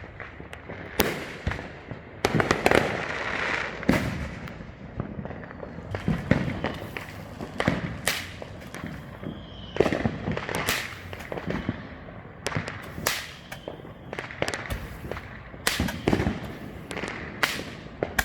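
Fireworks going off all around at once: many bangs and pops at irregular intervals, several a second at times, some followed by crackling.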